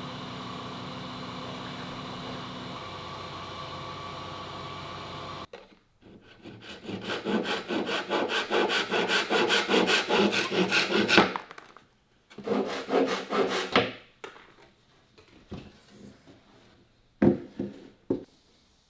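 A steady machine hum, then a saw cutting wood in quick, even back-and-forth strokes that grow louder. It stops, saws again briefly, and ends with a few last strokes.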